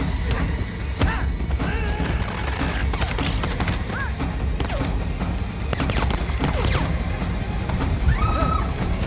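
Action film soundtrack: driving music under a dense mix of crashes and impacts, with a cluster of sharp hits about three seconds in and again around six to seven seconds. Several short high sliding sounds rise and fall over it.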